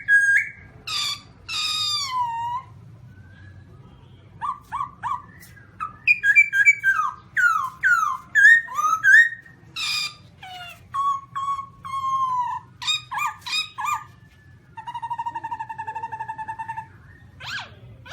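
Black-throated laughingthrush calling: a varied run of loud whistled notes, sliding notes and sharp call notes in bursts. Near the end a rapid rattling trill lasts about two seconds.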